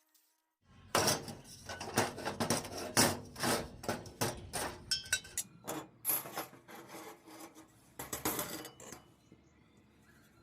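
Metal being handled and scraped: irregular knocks and rasping scrapes that start about a second in, come thick for a few seconds, then thin out and stop near the end.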